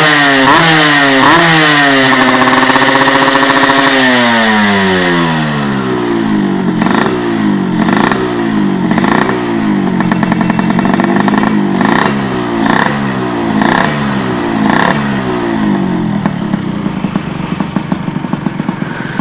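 Yamaha RX-King's two-stroke single-cylinder engine being revved through an aftermarket stainless under-belly 'Kolong Cobra' exhaust. First come quick throttle blips and a held high rev with a long fall. Then comes a run of sharp blips about once a second, each with a crackle at its peak, before the engine settles lower near the end.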